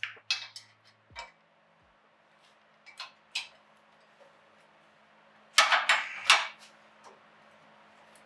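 Sharp metallic clinks and knocks of tools and metal parts being handled, scattered singly with a louder quick cluster about two thirds of the way through.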